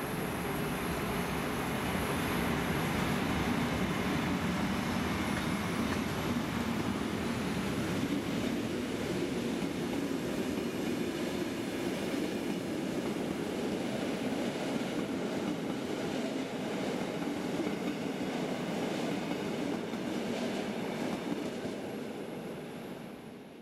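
Metre-gauge Rhaetian Railway train, a red electric locomotive hauling coaches, rolling past: a steady rumble of wheels on rail, fading out at the end.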